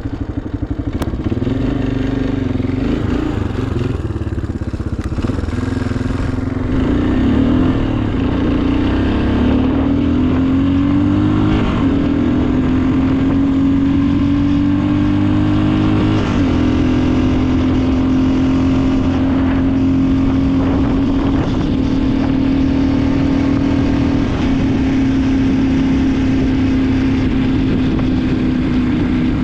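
Cold motorcycle engine running on a home-built capacitor-discharge ignition unit, which is firing reliably. The revs rise and fall unevenly for the first ten seconds or so, then settle into a steady fast idle.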